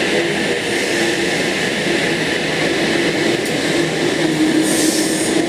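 Sydney Trains OSCAR (H set) electric multiple unit running at an underground platform, most likely pulling out: a steady rumble of wheels and running gear that builds up, with a steady electric motor hum beneath it.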